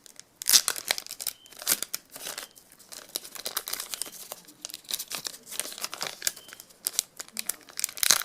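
A trading card pack's plastic wrapper being torn open and crinkled in the hands, a run of sharp crackles with the loudest tear about half a second in.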